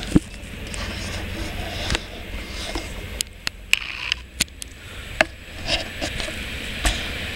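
Class 185 diesel multiple unit approaching at speed, a steady rumble of engine and wheels on the rails. Wind buffets the microphone in repeated sharp thumps.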